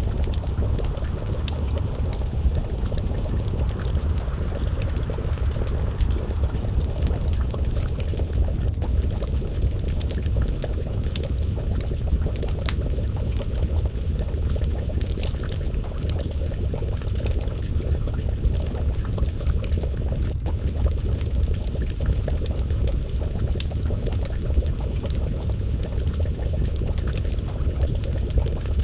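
Wood fire crackling with scattered sharp pops over a steady low rumble, and a pot of stew bubbling at a simmer.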